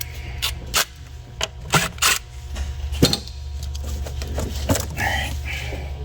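Irregular sharp clicks and knocks, the loudest about three seconds in, over a steady low hum. This is the sound of hand tools and parts being handled during work on an engine.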